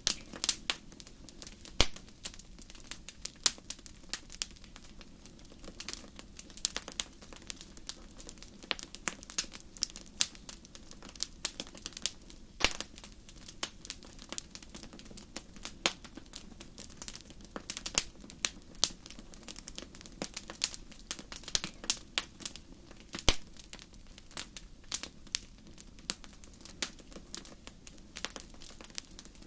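Fire crackling in a fireplace: irregular sharp pops and snaps, several a second at times, over a low steady rumble of the flames.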